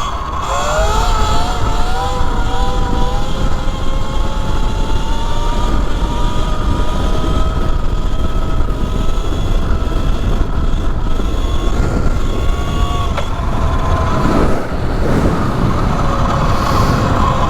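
Electric motor whine of an E Ride Pro SS 3.0 electric dirt bike under way. The whine climbs in pitch about a second in as the bike speeds up, holds with a slow rise, fades out around three-quarters of the way through as the throttle is let off, and picks up again near the end, over a steady low rumble.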